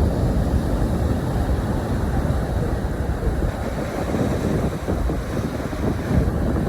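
Sea surf washing on the shore, heard as a steady, loud noise with wind buffeting the microphone.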